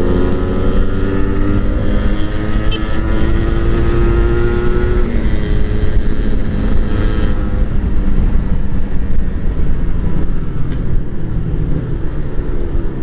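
Motorcycle engine accelerating, its pitch rising steadily over the first five seconds, then running on at speed with wind rush over the microphone.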